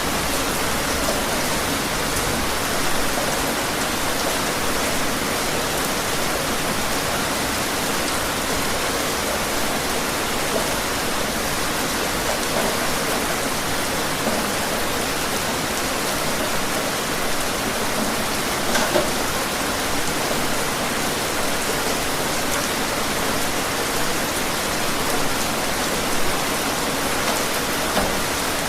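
Steady rain falling, an even hiss with occasional louder individual drops.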